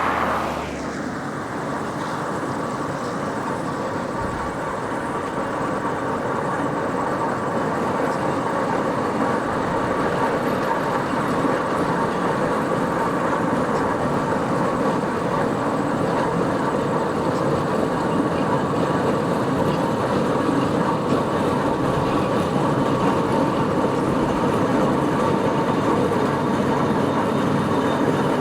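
Steam traction engine running along the road, a steady mechanical clatter and rumble with a constant whine in it, slowly growing louder.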